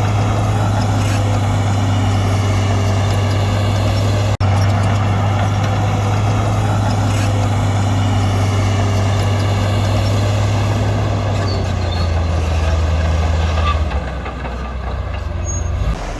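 Heavy diesel engine of earthmoving machinery running steadily, cut off for an instant about four seconds in. Near the end the engine note drops lower and quieter.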